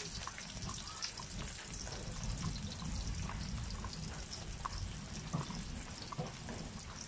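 Chopped garlic and red onion sizzling in hot oil in a pan: a steady hiss with many small scattered pops and crackles.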